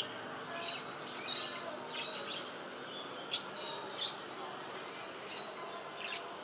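Pet birds chirping: short high chirps scattered throughout, the sharpest about three seconds in.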